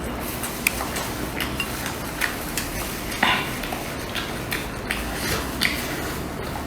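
A metal utensil stirring food in a pan, clinking and scraping against it at irregular short intervals, with a stronger clatter about halfway through, over a steady hiss.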